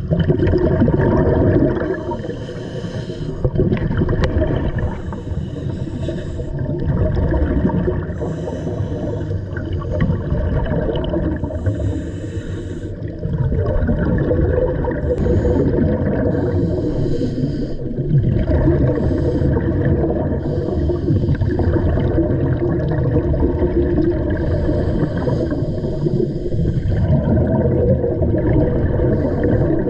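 Underwater camera sound of a scuba diver breathing through a regulator: a steady low rumble, with a burst of bubbling exhaust bubbles every few seconds on each exhale.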